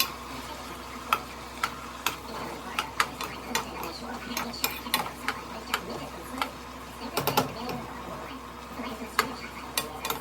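A spoon stirring chicken curry in a cooking pot, knocking and scraping against the pot in irregular sharp clicks, about one or two a second, with a cluster of knocks a little after the middle.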